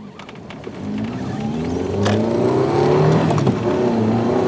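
A car engine revving hard as it accelerates, its pitch climbing and dropping back again and again as it shifts up through the gears, getting louder.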